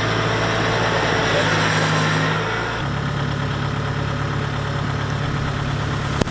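Kubota DC-70X rice combine harvester's diesel engine running steadily, its note shifting about three seconds in. A sharp click sounds near the end.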